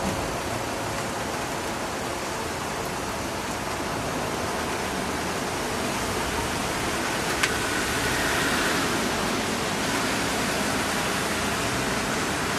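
Steady rain with the hiss of traffic on a wet city street, swelling a little past the middle. A single sharp click stands out about seven seconds in.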